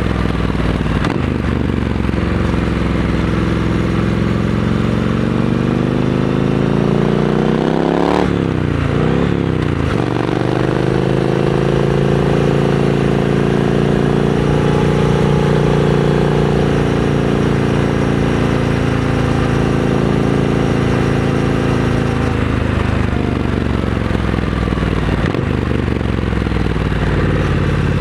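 Triumph Scrambler 900 parallel-twin engine through a Vance & Hines aftermarket exhaust, under way. It pulls up through the revs, drops sharply about eight seconds in as for a gear change, pulls again to a steady cruise, eases off, and picks up once more near the end.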